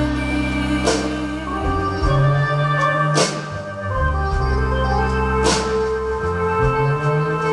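Instrumental break of a song played on an electronic keyboard: sustained organ-like chords over held bass notes, with a sharp accent about every two seconds.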